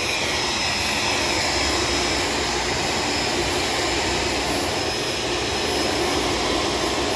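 Shark vacuum cleaner running steadily, a continuous motor whine and rush of suction air with a faint high tone.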